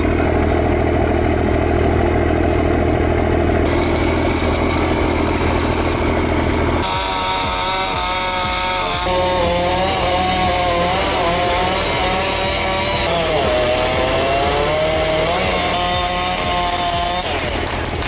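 Chainsaw running throughout. For about the first seven seconds it holds a steady low note, then it shifts to a higher note that wavers up and down, as a saw's pitch does while cutting into wood.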